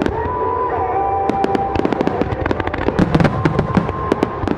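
Aerial fireworks bursting in quick succession, a dense run of sharp cracks and bangs.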